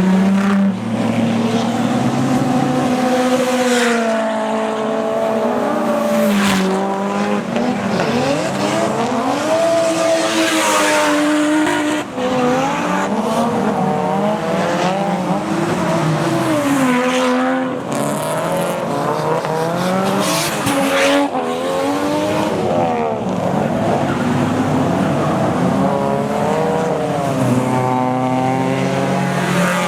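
Drift cars' engines revving hard, rising and falling in pitch again and again as they slide through a corner, several at once at times, with bursts of tyre noise.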